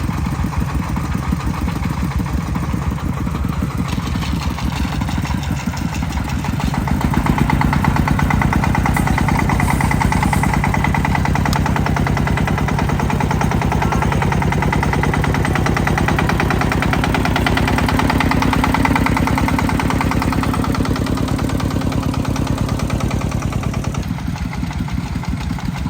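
Tractor engine running with a rapid, even chugging. It grows louder about seven seconds in, holds there, and eases slightly near the end.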